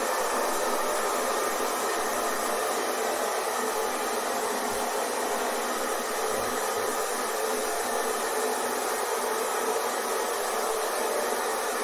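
Hair dryer running steadily: a continuous, even rush of air with no change in level or pitch.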